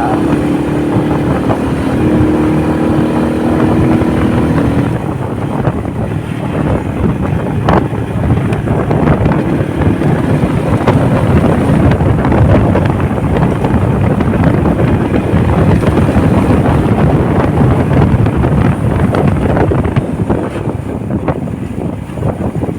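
Motorcycle riding at speed with wind buffeting the microphone. A steady engine drone is heard for about the first five seconds, then the wind rush covers it.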